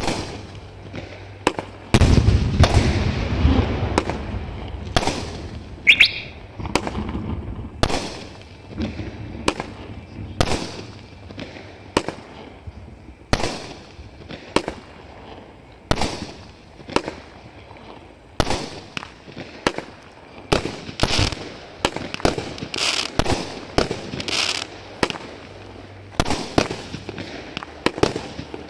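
Bright Star 'Traffic Jam' (BS8041) multi-shot aerial firework firing: a long run of sharp shots and bursts, about one to two a second. The heaviest boom comes about two seconds in, followed by a lingering rumble.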